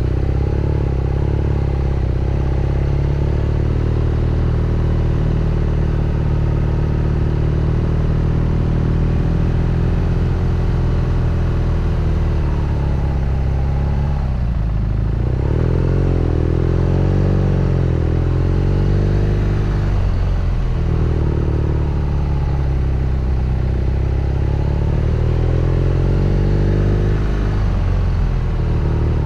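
BMW R nineT Scrambler's boxer twin engine and exhaust pulling on a steep, winding road. The engine note falls and rises several times as the throttle is closed and opened, with a dip and a quick rise about halfway through.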